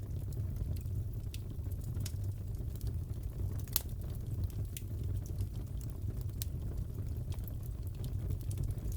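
Crackling fireplace fire: a steady low rumble with scattered sharp crackles and pops, one louder pop just under four seconds in.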